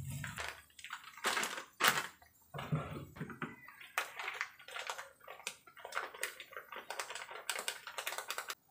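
Chilli paste frying in hot oil in a wok, popping and spattering in irregular crackles as it is cooked until the oil separates. The crackling cuts off suddenly near the end.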